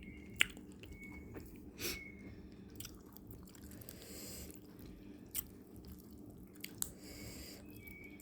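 Close-miked chewing of fried fish, with a few sharp clicks and smacks along the way.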